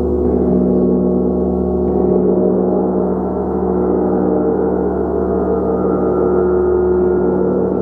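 A gong being played continuously, its many overlapping tones ringing together in a steady, dense wash with no single strike standing out.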